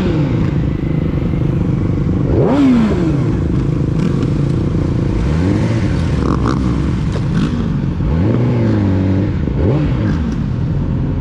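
Yamaha YZF-R6's inline-four engine through a full aftermarket exhaust, revving up and dropping back several times in quick throttle blips, with one longer rise and fall about two thirds of the way through.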